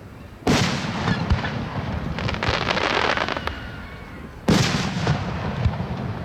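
Fireworks shells bursting overhead: two loud booms about four seconds apart, each trailing off in a long rumble, with a rapid crackle between them.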